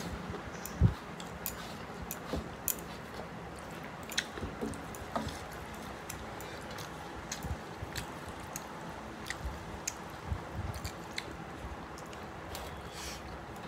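Chewing of mutton biryani: soft wet mouth sounds with scattered small clicks and smacks.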